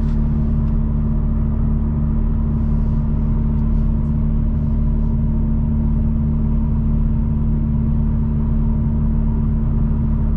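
2021 Toyota Supra with a muffler delete and downpipe cruising at a steady speed, heard from inside the cabin: a loud, steady exhaust drone at constant engine speed, typical of an unmuffled exhaust at highway cruise.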